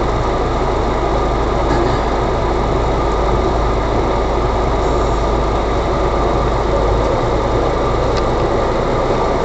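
Off-road 4x4's engine idling steadily while the vehicle stands still.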